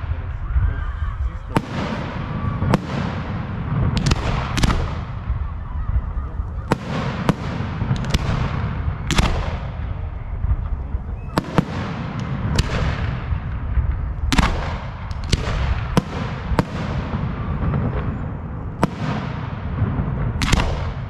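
Fireworks display: sharp shell bursts about once a second, some in quick pairs, each followed by a fading crackling hiss, over a steady low rumble.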